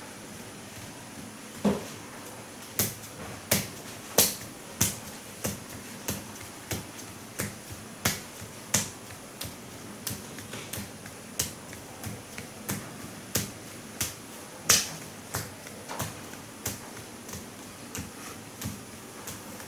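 A steady series of sharp taps or knocks, about three every two seconds, some louder than others.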